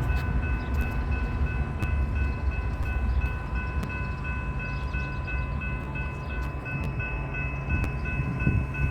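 A train rolling past with a steady low rumble and scattered sharp clicks of wheels over rail joints, while railroad grade-crossing bells ring on steadily.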